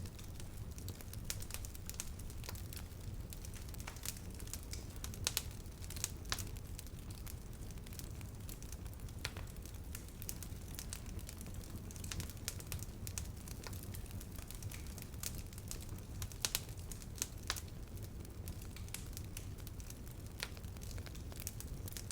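Wood campfire crackling: irregular sharp pops and snaps, a few of them louder, over a steady low rumble.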